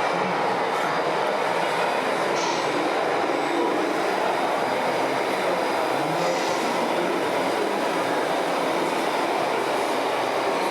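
Steady, even mechanical rumble with hiss, without pauses or distinct knocks.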